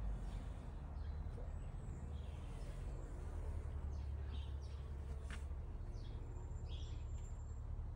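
Small birds chirping at intervals, with a couple of thin high whistled notes, over a steady low rumble.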